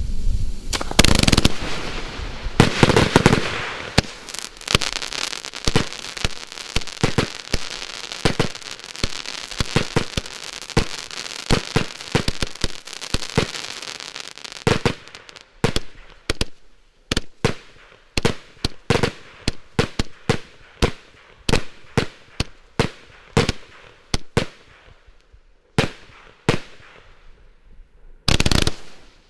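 I-Like-Legal Armageddon compound firework battery (281 shots) firing. A couple of loud bangs come first, then about ten seconds of dense crackling. After that come separate sharp shots in quick succession, about two a second, with a heavier burst near the end.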